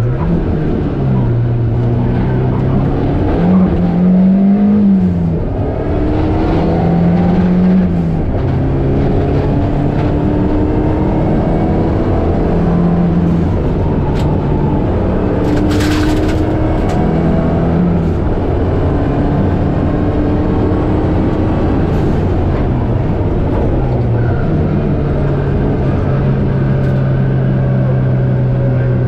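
Rally car engine heard from inside the cabin, driven hard: its pitch climbs and drops again and again as the driver works up and down through the gears. A short sharp crack cuts in about halfway through.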